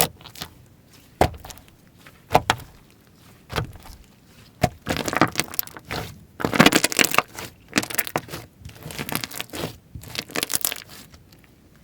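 Slime being squished, stretched and folded by hand, giving irregular sticky pops and crackles: a few separate clicks at first, then denser runs of crackling that stop shortly before the end.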